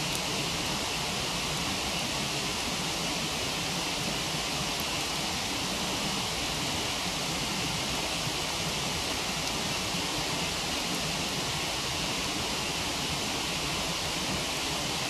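Waterfall rushing steadily, an even hiss with no breaks.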